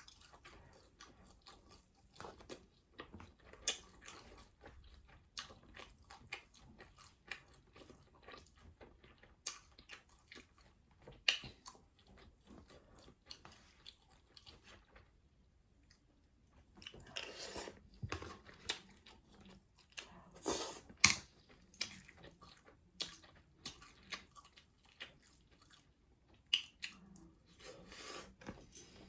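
Close-miked chewing and biting of sauce-dressed rotisserie chicken: irregular wet clicks and crunches from the mouth, pausing briefly midway, with a louder run of bites and chews later on.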